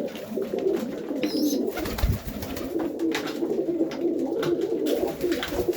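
Many domestic pigeons cooing together in a loft, a continuous low warbling chorus, with scattered small clicks and a brief low thump about two seconds in.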